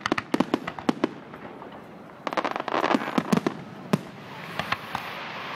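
Fireworks display: a rapid string of bangs and crackling reports, with a dense cluster in the first second, another about halfway through, and a few single pops near the end.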